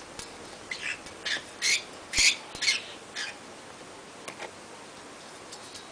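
Female Eclectus parrot picking at things on a clothesline with her beak: a run of about seven short scratchy sounds in the first half, then a few faint clicks.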